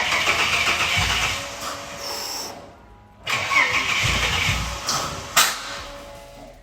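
Starter motor cranking a freshly installed engine in a Ford Falcon AU on its first start attempt, in two tries of about three and two seconds. The engine does not catch, and there is a sharp click near the end of the second try.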